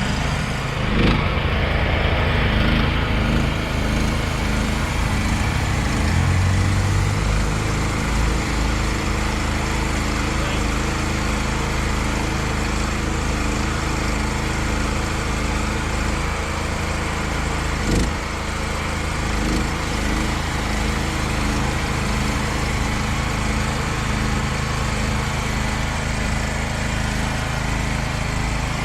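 Small electric-start petrol generator running steadily at a constant speed, with a couple of brief knocks, about a second in and again past halfway.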